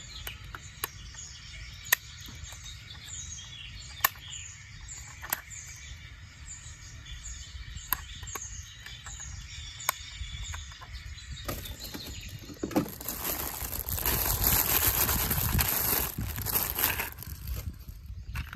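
A bird chirping in a regular series of short falling calls, with a few sharp clicks between them. About twelve seconds in, a loud rushing noise rises and runs for several seconds, drowning the calls.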